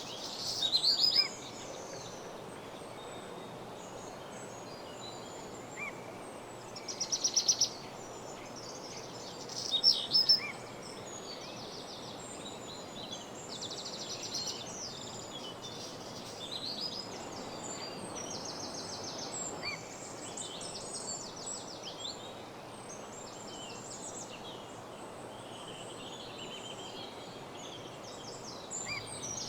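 Several woodland birds singing, overlapping trills and chirps, with the loudest songs about a second in, around seven seconds and around ten seconds. Under them is a steady background hiss.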